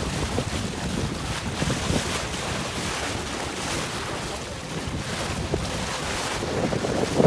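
Strong wind buffeting the microphone over the rush of water along a sailboat under way, a steady noisy rumble with no spoken words.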